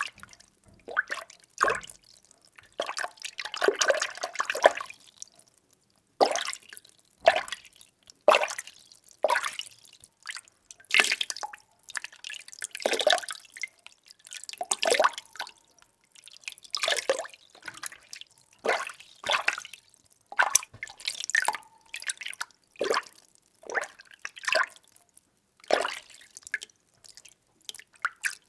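Water being stirred by hand in a container: irregular sloshes and splashes, a few each second, with brief pauses between strokes.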